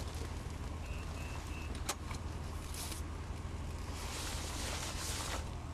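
Car engine idling steadily with a low hum, with three faint short beeps about a second in, a few sharp clicks and bursts of rustling.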